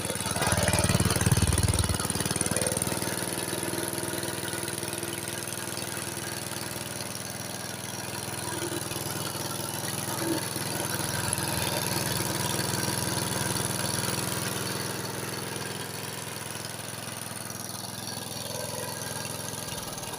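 Vintage self-propelled walk-behind lawn mower with a 1972 Briggs and Stratton engine running steadily. It is louder for the first couple of seconds, then its level swells and eases a little as it mows.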